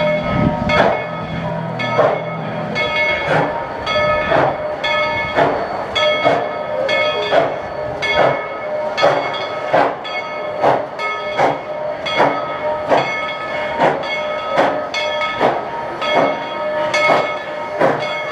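Narrow-gauge steam locomotive Tweetsie Railroad No. 190 chuffing in an even beat, about two exhaust beats a second, as it pulls away from the station. Its bell rings steadily over the chuffs.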